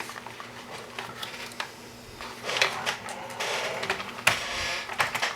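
Cardboard box flap being cut: a few handling clicks and knocks, then a couple of seconds of rasping cutting noise starting about halfway through, with a sharp knock within it.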